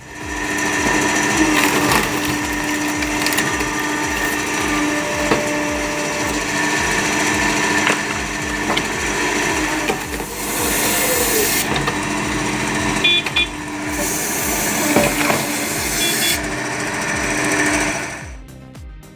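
A machine running with a steady hum, twice getting louder and harsher for a second or two. Background music with a steady beat plays underneath.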